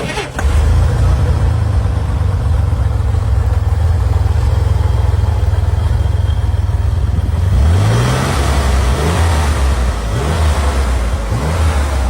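A classic car's engine running loud and steady at idle, then revved briefly about four times in the last few seconds, each rev a quick rise in pitch.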